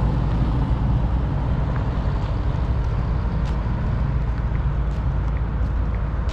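Car engine running steadily with a deep, low rumble.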